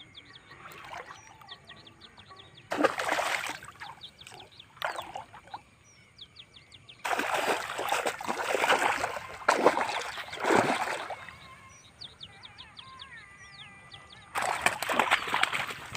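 Water splashing in several loud bursts of a second or two each, over birds chirping steadily.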